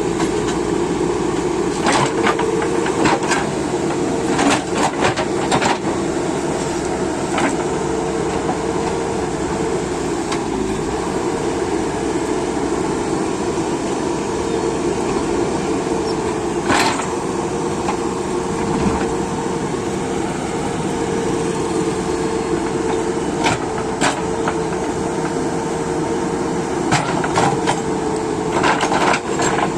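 JCB 3DX backhoe loader's diesel engine running with a steady drone as the machine travels, with scattered metallic clanks and rattles, clustered in a few bunches.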